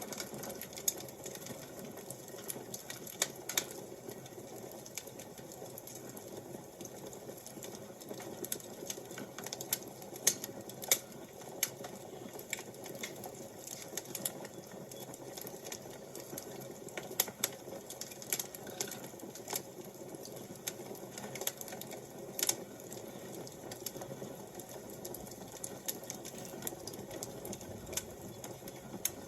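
Wood fire crackling: irregular sharp pops and snaps over a steady low rush of flame.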